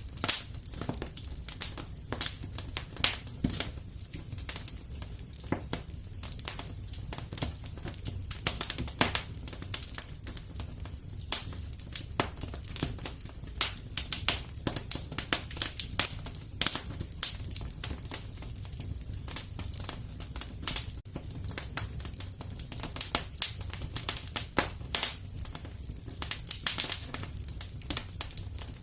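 Wood fire burning in a fireplace: a steady low rumble with irregular crackles and sharp pops scattered throughout.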